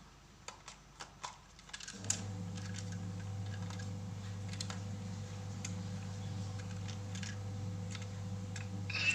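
Light plastic clicks and taps from a toy truck being handled. From about two seconds in, a steady low hum runs underneath.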